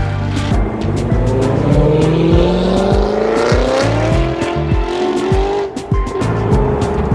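A car accelerating hard away from a launch: the engine note climbs steadily for about four seconds, breaks off briefly near six seconds as it shifts, then holds a higher note. Background music with a heavy bass beat plays along with it.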